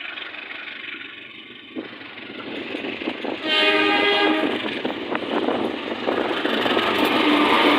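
Train horn sounding one short blast about three and a half seconds in, over the rising rumble and rail noise of a train coming through the station, which grows louder toward the end.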